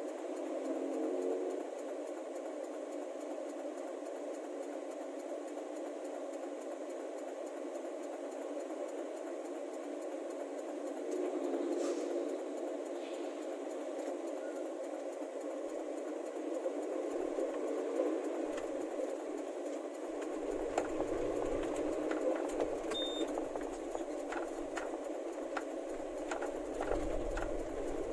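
Steady truck and road-traffic engine noise. A deeper engine rumble joins about two-thirds of the way through, with a few scattered clicks near the end.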